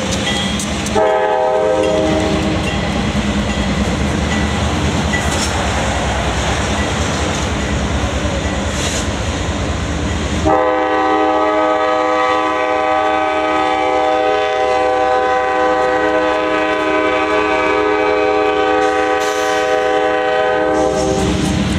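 CSX freight locomotive's air horn sounding a chord, first a short blast about a second in, then a long blast of about ten seconds starting about halfway through, over the steady rumble of the passing train.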